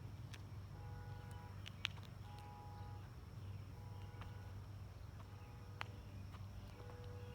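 Faint outdoor ambience: a steady low hum and a thin steady high tone, with a few short flat tones at different pitches and several brief soft clicks scattered through it.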